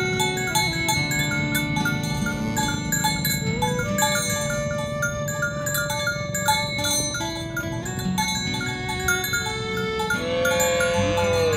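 Bell-like chiming tones ring on and off throughout. Near the end a cow moos once, its call falling in pitch.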